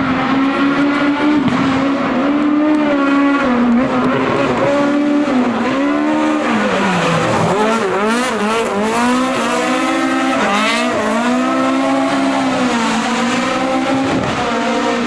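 Racing car engine at high revs, its pitch climbing and dropping again and again as it shifts gear and lifts off the throttle, with a flurry of quick rises and falls in the middle.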